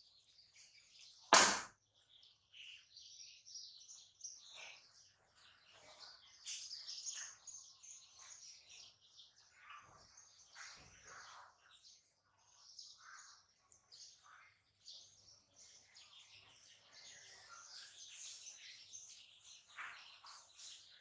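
Small birds chirping faintly and on and off in the background, with one sharp knock about a second and a half in.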